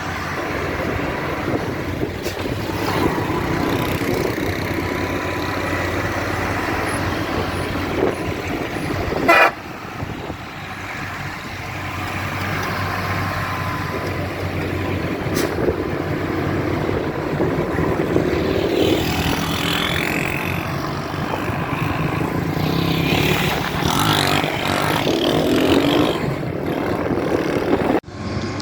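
Hino truck engines running steadily under load on a mountain climb, with horns tooting, one loud wavering horn blast about a third of the way in.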